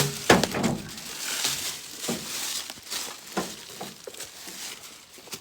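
Footsteps crunching through dry leaves and underbrush: an uneven series of crunches and rustles, the sharpest one right at the start.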